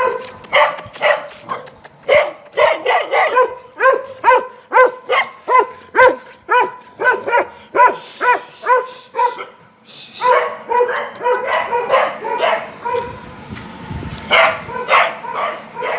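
A pack of street dogs barking together: a quick run of overlapping barks, about three a second, with a short lull about ten seconds in before the barking picks up again.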